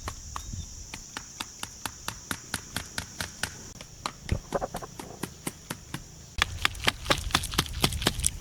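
A regular series of sharp knocks, about two or three a second, growing louder and quicker about six seconds in, over a steady high hiss.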